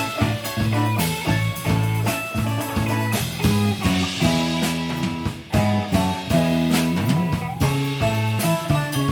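Live band playing an instrumental passage: electric guitar and viola caipira picking melodic lines over electric bass and a drum kit keeping a steady beat, with a short break about five and a half seconds in.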